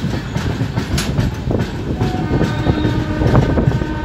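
Udyan Express passenger train running at speed, heard from inside a coach: a steady low rumble with the clatter of wheels over rail joints. About halfway through, a few steady high tones join the rumble.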